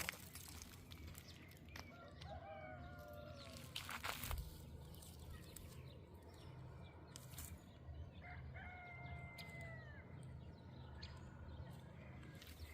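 Rooster crowing faintly twice, about two seconds in and again at about eight and a half seconds, the second crow a long held note that drops at its end. A few short knocks sound in between.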